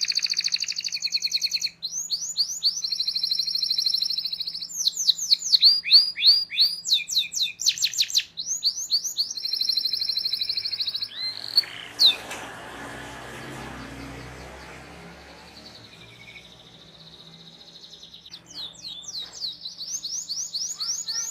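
Domestic canary singing a long song of rapid high trills and chirp runs, each run a fast series of repeated notes. About eleven seconds in the song gives way to several seconds of a broad noisy rush, then the trills resume near the end. A faint steady low hum sits underneath.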